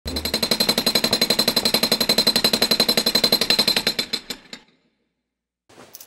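Cartoon jackhammer sound effect, a rapid even pounding of about eight strikes a second, fading out about four seconds in. A couple of faint short sounds come near the end.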